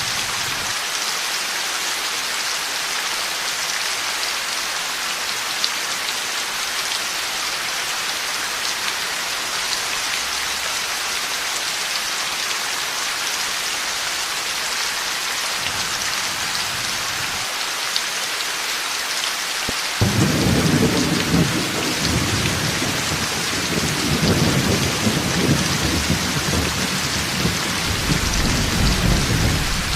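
Heavy rain pouring steadily. About two thirds of the way through, thunder breaks in suddenly with a deep rumble that rolls on for about ten seconds and swells again near the end.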